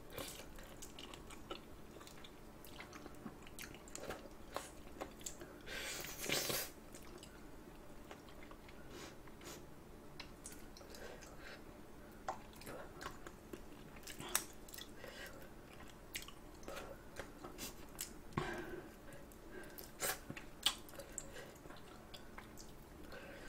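Spicy chicken feet being eaten: wet chewing and gnawing with many small sharp clicks, and a louder, longer noisy stretch about six seconds in.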